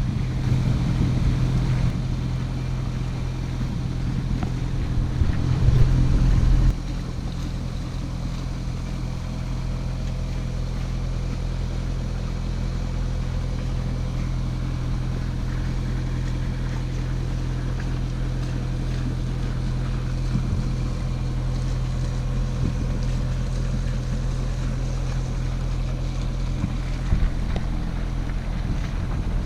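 A sailboat's inboard auxiliary engine running steadily under way, a low, even hum with some water and wind wash. About seven seconds in it abruptly gets quieter and then runs on evenly.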